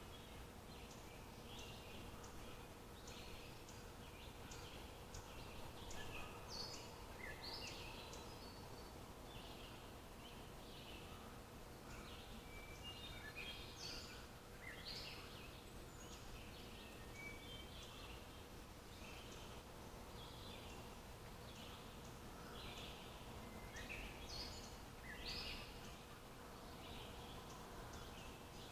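Several wild birds chirping and calling in short, scattered notes over a faint steady background hiss, with a faint steady hum underneath.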